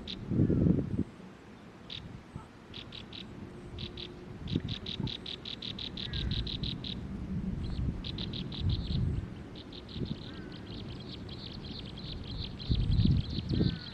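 Bird singing in fast trains of short, high notes, in bursts of a second or so and a longer steady run through the second half, with faint sliding calls from another bird now and then. A low rumble about half a second in and again near the end.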